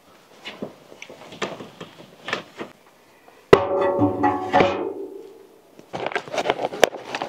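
Light handling and rustling noises, then about halfway through a sharp metallic clang that rings out with several tones and fades over about a second and a half, followed by crinkling as gear is handled again.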